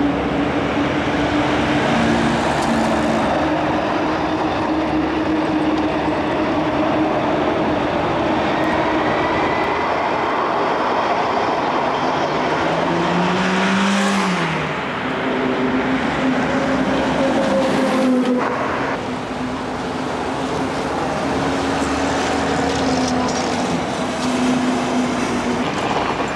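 A transit vehicle running: a steady rolling noise with motor whine tones that hold and shift in pitch, and one tone that rises and falls about 13 to 15 seconds in.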